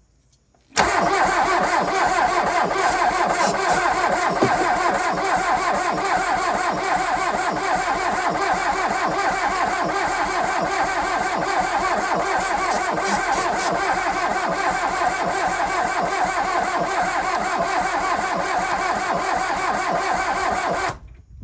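Starter motor cranking the VW Rabbit truck's 1.6 diesel engine for about twenty seconds without it catching. It starts about a second in and stops near the end. The starter turns too slowly, not cranking fast enough, which the owner puts down to a weak battery.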